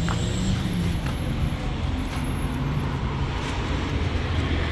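Steady low rumble and road noise of a motor vehicle, with no sudden events.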